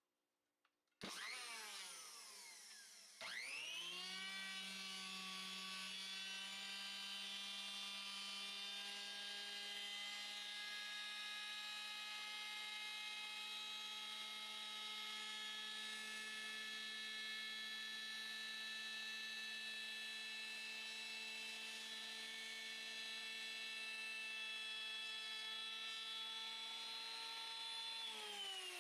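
Makita 1800 electric planer running with no load. It gives a brief start about a second in. At about three seconds it spins up to a steady, even whine, then winds down with falling pitch near the end as it is switched off.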